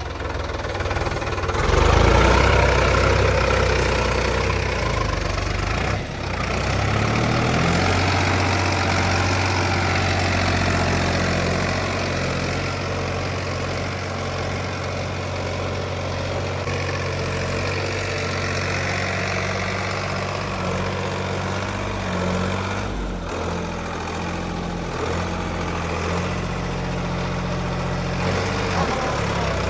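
Diesel tractor engine running, getting louder about two seconds in, its pitch shifting up and down in steps several times as the engine speed changes.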